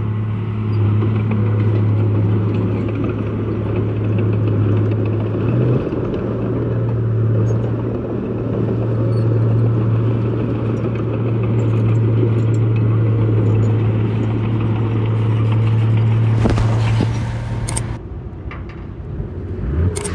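Heavy diesel engine of earthmoving machinery running steadily at a constant pitch. A short burst of noise comes about three-quarters through, after which the engine sound drops and shifts in pitch near the end.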